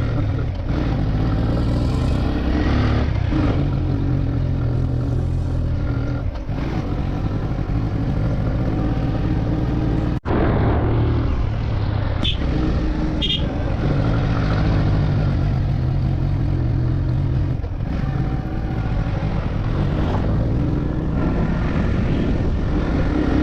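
Motorcycle engine running steadily while riding, under a dense low rumble. The sound cuts out for an instant a little under halfway through, and two short high beeps follow soon after.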